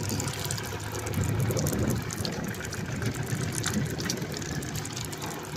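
Rain falling on the sea and a small wooden boat, with water sloshing and a steady low hum underneath.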